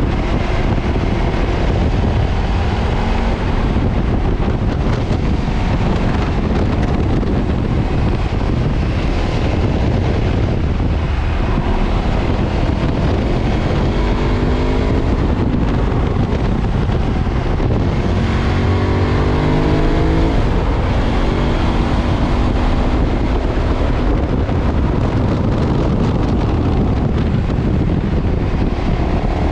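2013 KTM 990's 999 cc V-twin engine running through its stock exhaust while riding. The revs climb twice, about halfway through and again a few seconds later, over a steady rush of wind on the microphone.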